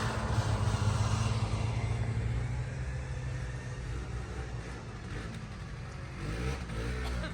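A motor vehicle engine running with a steady low hum, gradually growing quieter.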